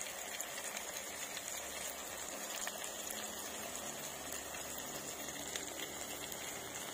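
Fish-oil curry with vegetables sizzling in oil in a pan on the stove: a steady crackling hiss with many small pops.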